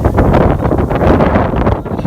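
Strong wind blowing across the microphone, loud and gusting.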